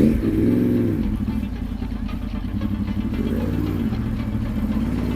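Motorcycle engine running, its pitch swelling up and back down twice as the throttle is opened and eased off.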